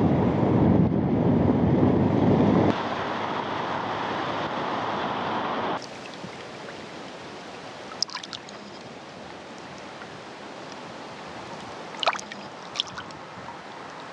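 Steady wind and road rush while riding a motorcycle, cutting abruptly to a quieter steady rushing noise about six seconds in, broken by a few short high chirps.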